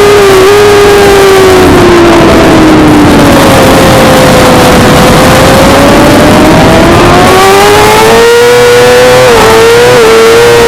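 Suzuki GSX-R600 inline-four engine at high revs on track. Its pitch falls over the first few seconds as the bike slows, then climbs steadily as it accelerates again, with two brief dips in pitch near the end. Loud rushing wind noise runs throughout.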